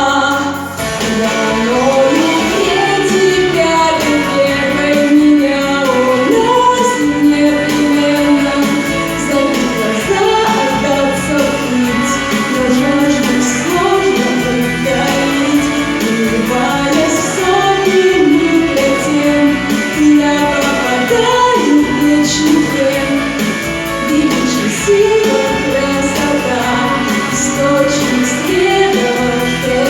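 A song plays: a woman sings a melody over a band backing with guitar.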